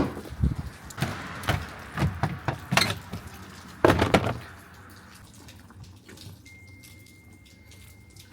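A string of sharp knocks and clunks, the loudest a double clunk about four seconds in, then a single steady high-pitched beep held for the last two seconds.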